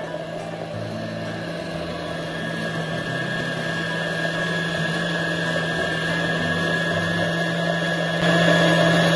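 Electric blender running steadily as it mixes a mayonnaise dip, growing a little louder and stepping up in level about eight seconds in.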